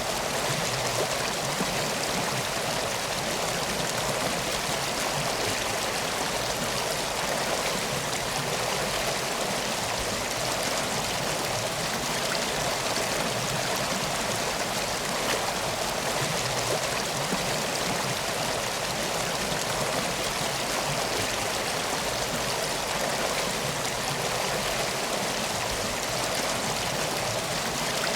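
Steady rushing and trickling of flowing river water, unchanging throughout.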